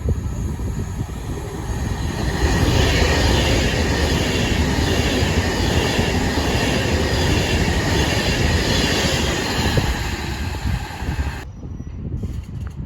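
Train running past on the rails: a loud steady rush of wheels and running gear that builds about two seconds in, with faint wavering high tones, then breaks off sharply near the end.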